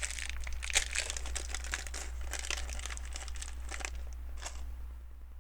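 Hands rummaging through loose LEGO pieces and crinkling plastic: a dense run of small clicks and crackles that dies away about four and a half seconds in.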